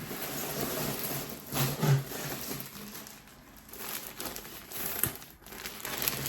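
Plastic packaging crinkling and rustling as it is handled and pulled open, in irregular bursts.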